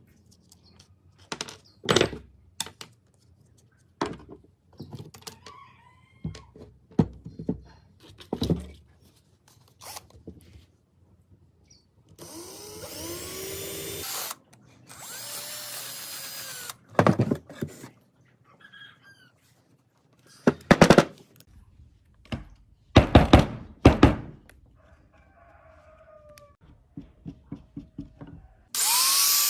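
Workshop work with hand and power tools: scattered knocks and clicks of metal parts, two short spells of a power drill running around the middle, and a louder power tool spinning up near the end.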